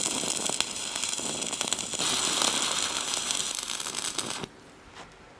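Stick welder's arc crackling and sizzling as a weld bead is run, then cutting off suddenly about four and a half seconds in as the arc is broken.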